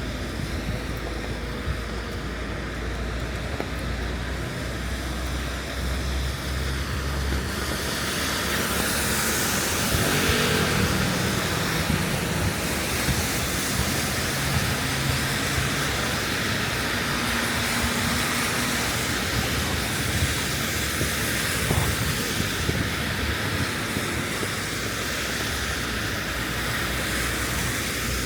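Rainy city street ambience: a steady hiss of rain and traffic on wet roads, with a low engine rumble at first, the hiss growing louder about eight seconds in.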